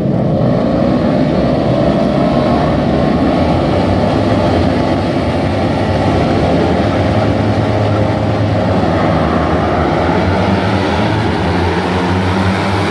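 Racing superbike engines running hard on track: a loud, steady engine drone whose pitch wavers only slightly.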